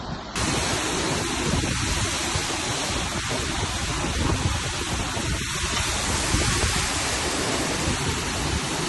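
Hurricane rain and wind: a steady rush of heavy rain with wind buffeting the microphone, starting and stopping abruptly.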